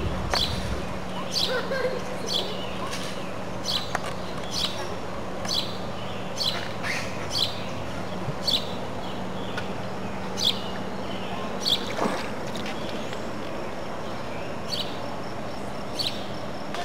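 A bird calling with short, high chirps again and again, about one or two a second, over a steady low hum, with a single click about twelve seconds in.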